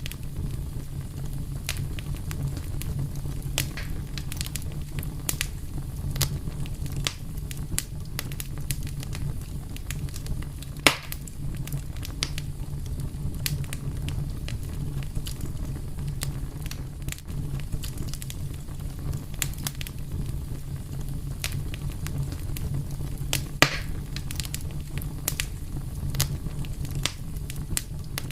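Wood fire crackling: a steady low rumble of burning with frequent small snaps and pops, and two louder pops, about eleven seconds in and near the two-thirds mark.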